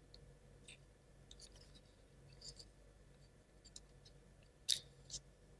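Faint, scattered small clicks and taps of plywood model parts being handled, as the helper piece is worked off the wooden model, with two sharper clicks near the end.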